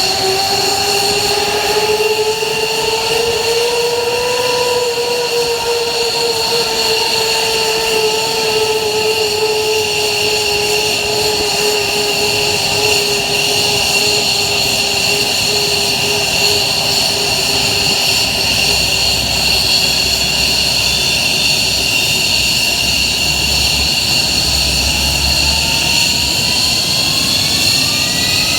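F-15J fighter's F100 turbofan engines whining during engine start: a loud, steady high-pitched whine over a lower tone that climbs for the first few seconds, then slowly sinks and fades. Near the end a new whine starts rising as a turbine spools up.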